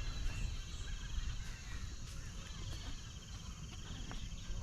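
An insect trilling steadily in a high, fast-pulsed buzz, stopping for about a second partway through and then starting again, over a low steady rumble.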